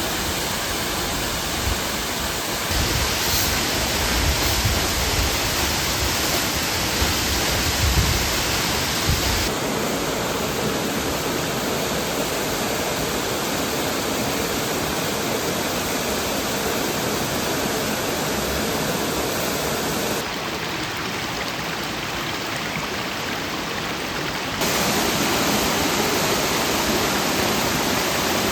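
Steady rushing of falling water from the Minoh waterfall, a dense even hiss whose tone shifts abruptly several times, with a low rumble under it for the first third.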